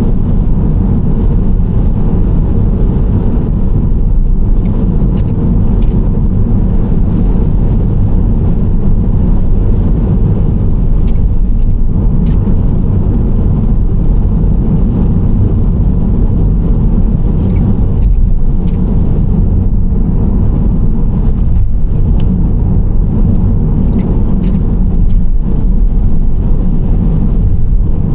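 Nissan Serena C25 minivan driving at a steady speed: continuous low road and tyre noise with the engine running under it, and a few faint ticks scattered through.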